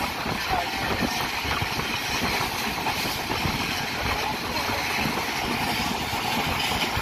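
Karakoram Express passenger train running at speed, heard from aboard the coach: a steady noise of wheels on the rails and rushing air.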